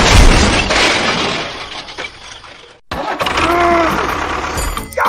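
A loud crash like something shattering, fading away over about two and a half seconds. After a brief break comes a short pitched sound that rises and falls, over continuing noise.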